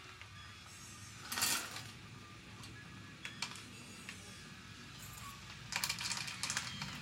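Light clicks and clattering of small hard pieces from a model construction set, with a short rattling burst about a second and a half in and a run of clinks near the end.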